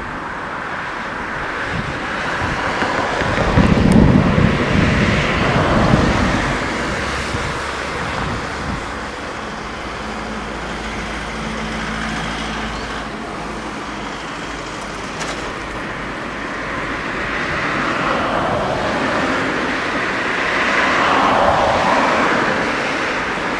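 Continuous engine and rushing noise that swells and fades, with gusts of wind buffeting the microphone during the first few seconds.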